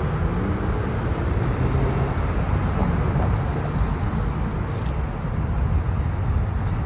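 Infiniti FX35 crossover accelerating past, its 3.5-litre V6 engine note rising in pitch twice as it pulls away, over a steady low road and tyre rumble.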